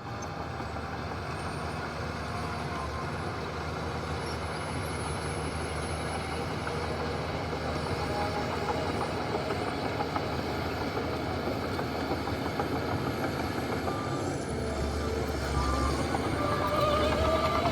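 Heavy diesel earthmoving machinery running steadily, growing louder near the end.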